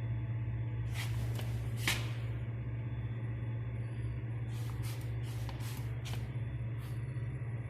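1996 MLZ passenger lift running, a steady electric-motor hum over a low throb that pulses a couple of times a second. Scattered clicks and rattles come twice about a second in, then in a cluster around the middle.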